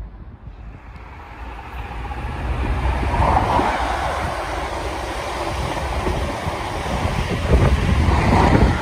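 InterCity 125 (HST) passenger train passing at speed: the power car's diesel engine and the coaches' wheels running on the rails, growing louder over the first few seconds and staying loud as the train goes by, with wind buffeting the microphone.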